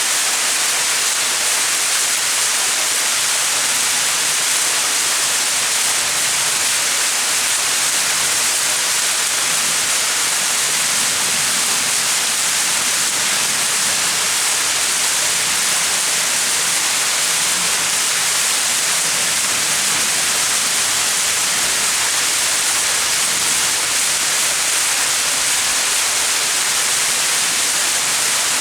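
A small mountain waterfall splashing steadily: an even hiss of falling water, strongest in the high range, with no change.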